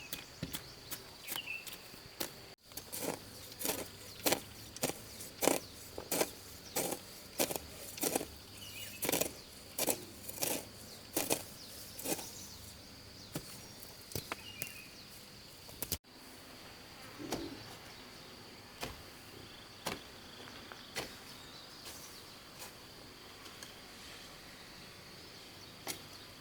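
A run of sharp knocks, about one or two a second, over a steady high insect drone; after about sixteen seconds the knocks become sparse and the drone carries on.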